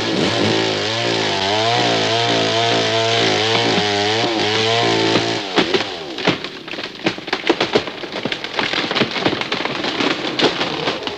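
A chainsaw running under load, its pitch wavering as it cuts, stops about five and a half seconds in. A run of sharp cracks and snaps of splintering wood follows, as of a felled tree breaking and coming down.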